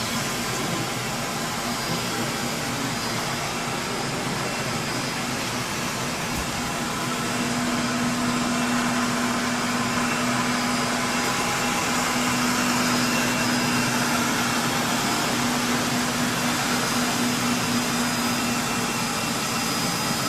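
Compact wet floor scrubber running: a steady motor whir with a low hum, getting somewhat louder about seven seconds in.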